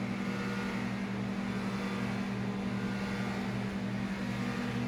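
Steady low machine hum, a constant drone with a slight pulsing in its lowest note.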